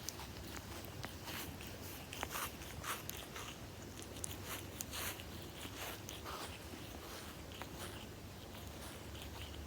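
Kitten grooming its fur: irregular short, wet licking strokes, several a second, over a low steady purr.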